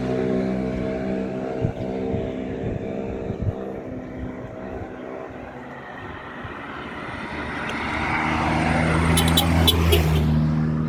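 Motor vehicles on a road near the walker: one engine's steady hum fades away over the first few seconds, then another vehicle approaches and grows louder near the end.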